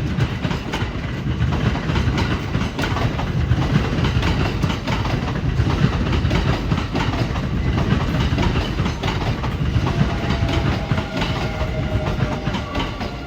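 A train passing close by, its wheels clattering over the rail joints. The sound sets in abruptly, and a faint high squeal from the wheels comes in near the end.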